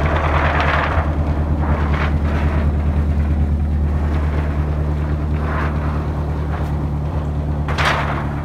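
Nissan 240SX's four-cylinder engine idling steadily with an even, rapid pulse. A few brief bursts of hiss, like wind on the microphone, come and go over it.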